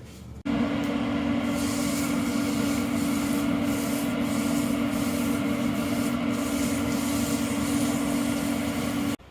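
Grill grates being scrubbed clean with a powered brush: a steady rasping scrub over a constant motor hum, starting abruptly about half a second in and cutting off just before the end.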